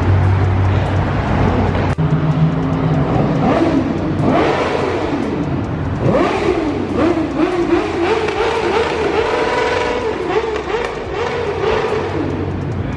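Car engine revving up and down several times over a steady low idle, with pitch rising and falling repeatedly, then holding steady near the end.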